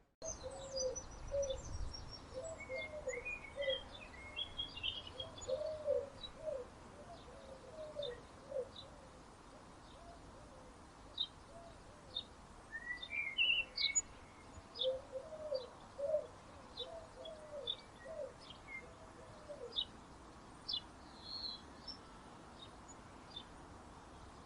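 Birdsong: a dove cooing in low phrases of several notes, repeated three times. Small birds chirp steadily around it, with a couple of short warbled songbird phrases.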